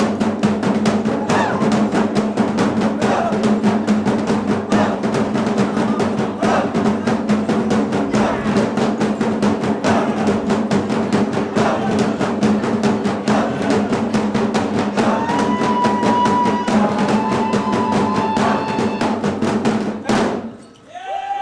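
Tribal-style dance music built on fast, dense drumming over a steady low drone. It stops suddenly near the end.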